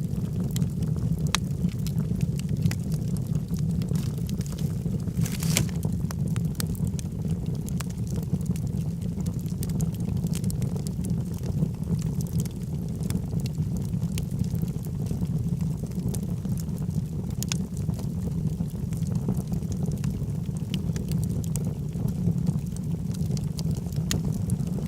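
Wood logs burning in a fireplace: a steady low rumble of the flames with frequent sharp crackles and pops, one louder crackle about five and a half seconds in.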